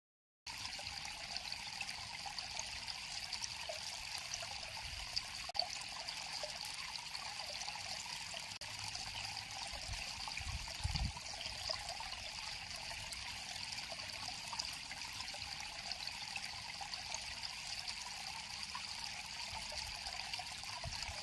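River water flowing steadily, with a brief low rumble about halfway through.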